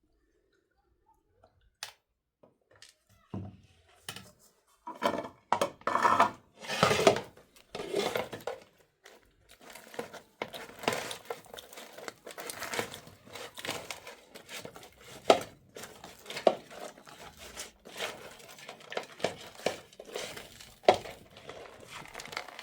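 Household things being handled: rustling and crinkling with scattered clicks, knocks and clinks, loudest in a run of noisy bursts about five to eight seconds in.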